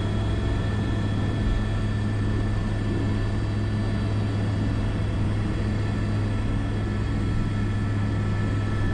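Airbus AS350 B3 (H125) single-turbine helicopter heard from inside the cockpit: a steady, even rotor drone with a constant high whine over it, holding the same pitch throughout.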